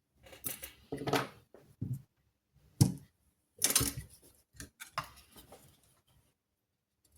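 Irregular clinks and clatters of metal tools and small parts being handled and set down on a workbench, with the loudest knocks about a second in and around three to four seconds in.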